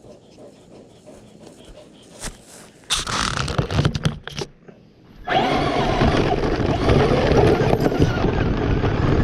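Scraping and clicking, then a steady loud rush from about five seconds in, as the Traxxas Slash RC truck drives off across the grass.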